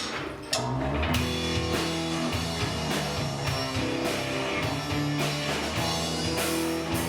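Rock music with guitar and a drum kit, kicking in about half a second in and then playing steadily.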